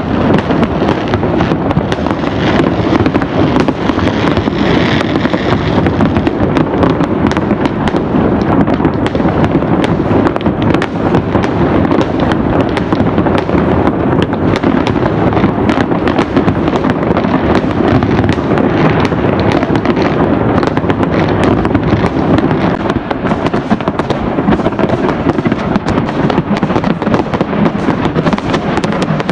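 Fireworks going off in a dense, unbroken barrage, with many bangs and crackles overlapping and no pause between them.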